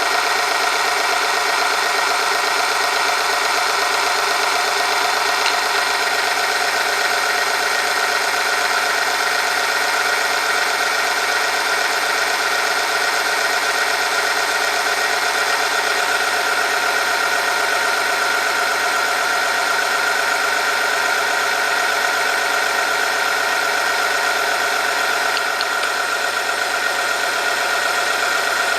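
Oil film strength tester running steadily: a motor-driven rotating part grinds against a steel test sample lubricated with Specol Gold 5W30 under added weights, with a steady high whine.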